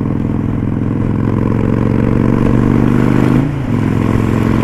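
Victory Vegas Jackpot's V-twin engine running under way, its note climbing slowly. About three and a half seconds in the note dips sharply and briefly, then carries on steadily.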